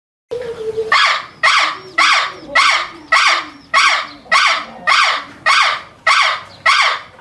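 An animal calling: eleven loud calls in a steady series, a little under two a second, starting abruptly after a moment of silence.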